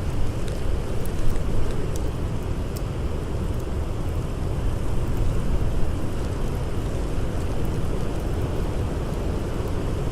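Steady roar of blizzard wind, heaviest in a deep low rumble, with a few sharp crackles from a burning wood fire.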